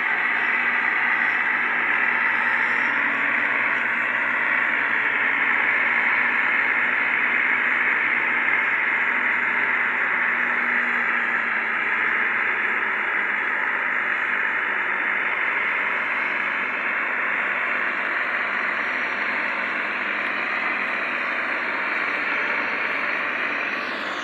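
Fiat diesel tractor engines running steadily under heavy load, a dense, even mechanical noise.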